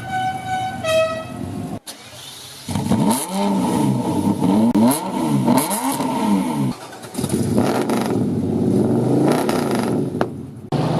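A musical car horn playing a tune of stepped notes for the first couple of seconds. Then, after a break, a car engine revved again and again, its pitch rising and falling several times.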